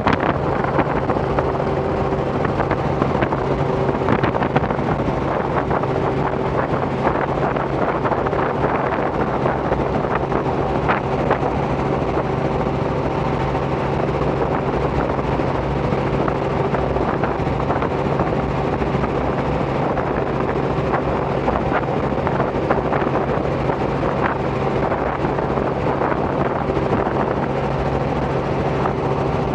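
Robinson R44 helicopter in cruise flight: its six-cylinder piston engine and rotors drone steadily with a constant hum, and wind buffets the microphone.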